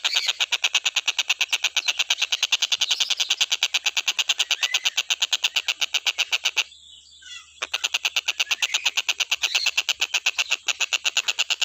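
Tengkek buto kingfisher calling in a rapid, even chatter of sharp notes, about ten a second, that breaks off for under a second around seven seconds in and then carries on.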